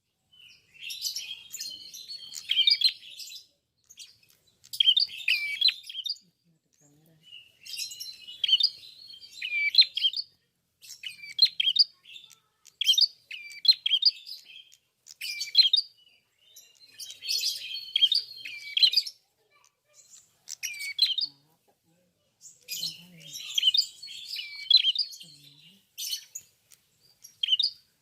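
Olive-backed tailorbird (prenjak kepala merah/klawu) singing in full voice: bursts of sharp, high chirping phrases about a second or two long, repeated with short pauses between them.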